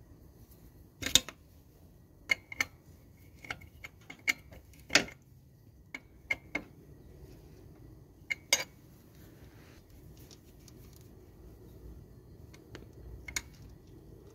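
Metal tools and parts clinking and tapping as they are handled, in a dozen or so separate sharp knocks with the loudest about a second in and about five seconds in.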